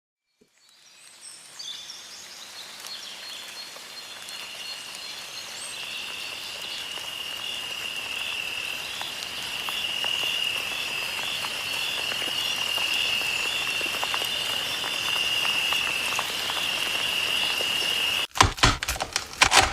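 Nature ambience: a steady, high-pitched, pulsing chorus of calling animals that fades in over the first several seconds. It cuts off abruptly near the end, giving way to a run of sharp clicks.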